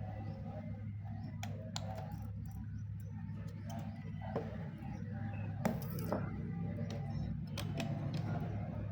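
Steady low electrical hum with scattered small clicks and taps as tools and circuit-board parts are handled on a workbench.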